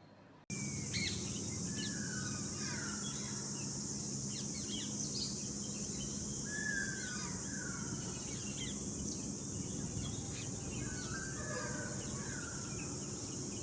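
Forest ambience that starts abruptly about half a second in: a steady high-pitched insect drone, with repeated short bird calls over it, some sliding down in pitch and some sharp chirps.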